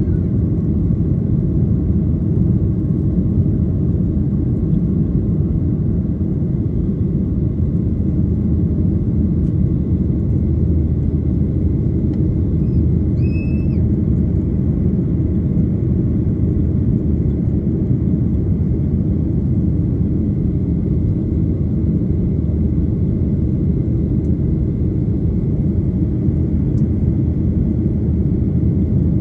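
Steady low rumble of a Boeing 737 airliner's jet engines and airflow, heard from inside the passenger cabin. A brief high tone sounds once about halfway through.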